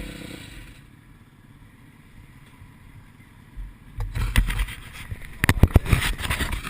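Yamaha YZ250F four-stroke motocross engine running and dying away within the first second, followed by a few seconds of quiet. From about four seconds in come a run of irregular sharp knocks and crackles, loudest a second or two later.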